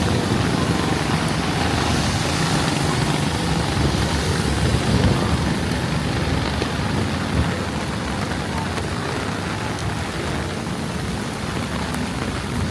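Heavy rain pouring steadily, with a motor vehicle's low engine rumble in the first half that fades away.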